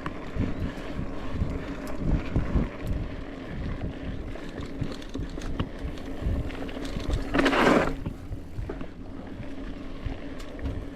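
Mountain bike being ridden over a trail, with wind on the microphone and scattered knocks and rattles. About seven and a half seconds in there is a short rushing hiss.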